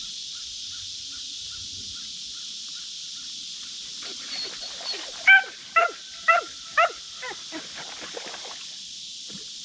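An animal calls out in a run of short barks, four loud ones about half a second apart, then fainter ones trailing off, over a steady high chorus of night insects.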